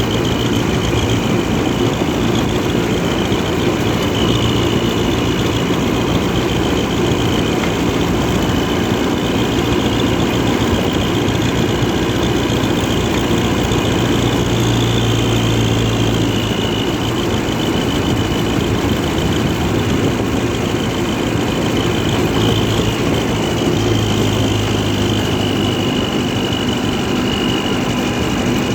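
International Harvester McCormick 444 tractor engine running steadily, a low even drone with small shifts in pitch.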